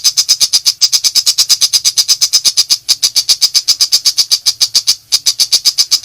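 Tiger shrike giving a rapid, harsh chattering call: a fast run of sharp, even notes, about eight a second, broken by two short pauses.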